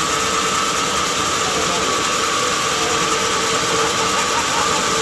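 Sawmill machinery running steadily: a constant mechanical noise carrying a steady hum, with no strokes or pauses.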